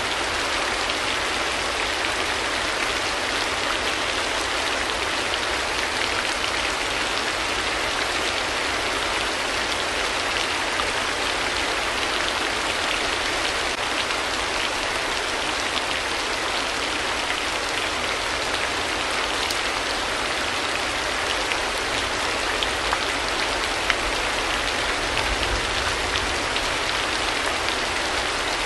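Steady rain falling, an even hiss dotted with small drop ticks.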